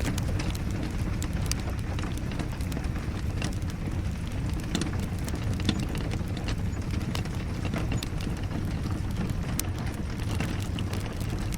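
Wood fire crackling in a fireplace, with scattered sharp pops and clicks over a steady low rushing noise, mixed with rain.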